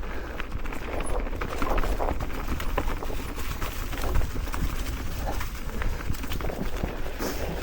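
Mountain bike ridden over rough trail: rolling tyre noise with a steady stream of irregular knocks and rattles from the bike, over a constant low rumble.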